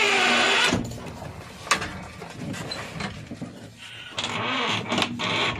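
JCB 3DX backhoe loader's diesel engine working under load, with several sharp knocks and clanks from the machine as it digs and loads mud.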